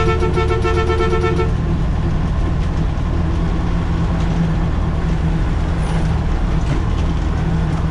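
Concrete pump truck's diesel engine running steadily, heard from the cab. A vehicle horn sounds at the start and stops after about a second and a half.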